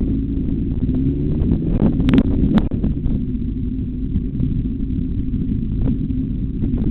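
Motorcycle engine running on track: a steady low rumble that holds a fairly constant pitch, with a couple of sharp clicks about two seconds in.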